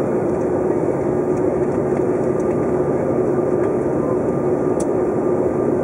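Steady roar of a Bombardier CRJ900 regional jet heard from inside the aircraft on approach: the rear-mounted turbofan engines and the airflow past the fuselage make a constant rush, with a steady hum running under it.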